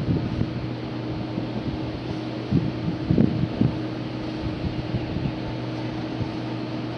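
A steady machine hum with low, irregular rumbling bumps over it, loudest a little after three seconds in.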